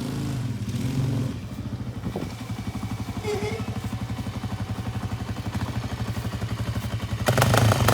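ATV engine running, settling to an even, pulsing idle after about a second, then revved up loudly near the end.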